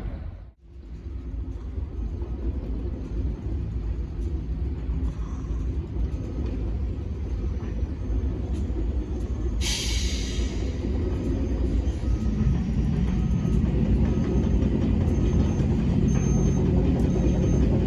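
Low rumble of an approaching train, growing steadily louder, with a short sharp hiss of air about ten seconds in.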